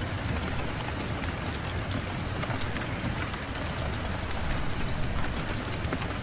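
Fireplace wood fire crackling, with scattered sharp pops over a steady low rush of wind.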